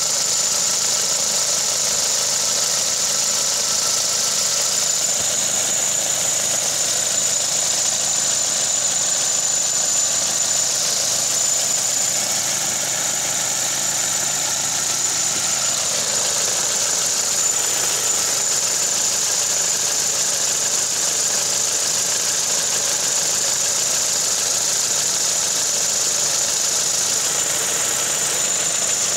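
An MG3's DVVT petrol engine idling steadily with a steady high-pitched whine over it. The engine vibrates even at idle, which the owner reports as a recurring vibration fault in the 18-month-old car.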